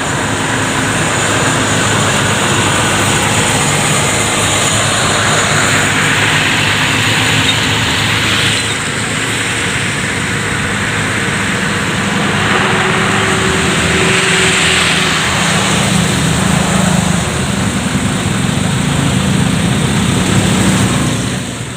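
Road traffic noise in a traffic jam, with vehicle engines running under a steady loud rush. It swells twice.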